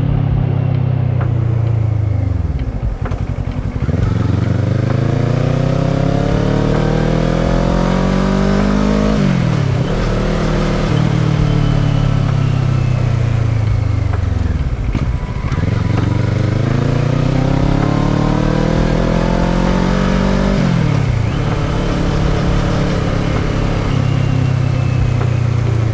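Kawasaki ER-6n's 649 cc parallel-twin engine pulling up through the revs, then dropping sharply as the throttle is rolled off and the engine slows, twice over. Wind noise runs throughout.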